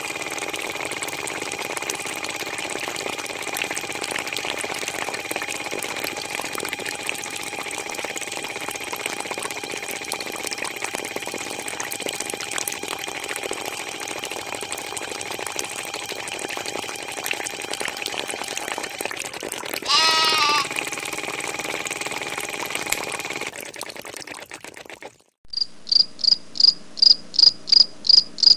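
A mini water pump motor buzzes steadily as it pushes water through a thin hose, then stops a little before the end. About two-thirds in there is one short pitched call. Near the end a run of loud, high-pitched chirps follows, about four a second.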